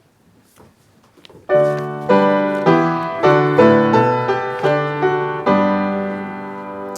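Faint rustles and clicks, then about one and a half seconds in a piano starts playing a slow series of chords, each struck and fading.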